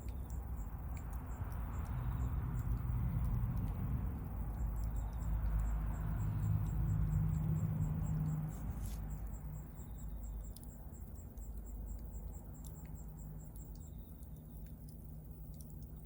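Bonfire crackling with scattered sharp pops over a low rumble of flames that swells and then eases off. A fast, even high ticking runs in the background.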